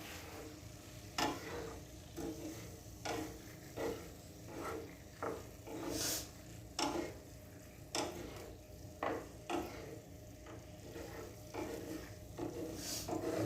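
A spoon stirring pasta in sauce in a cooking pan, with irregular light knocks and scrapes against the pan about once a second over a faint sizzle.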